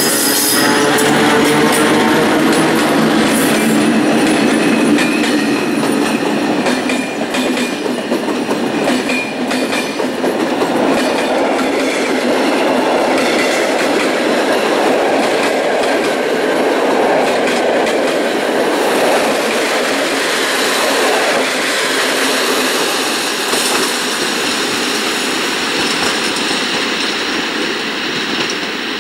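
MÁV class V43 electric locomotive hauling a passenger train past at close range. At first its motors give a whine that rises in pitch, then the coaches' wheels rumble and clatter on the rails, easing slightly as the train draws away.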